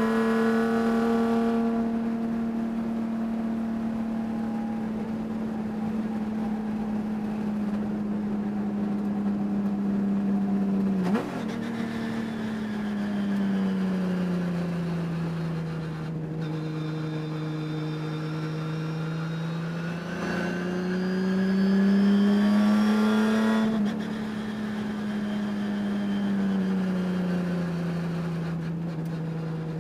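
Race car engine running hard at high revs, its note held high, falling sharply about eleven seconds in, climbing again and falling once more near the end. The owner reports a high-RPM misfire in this engine, audible during the race.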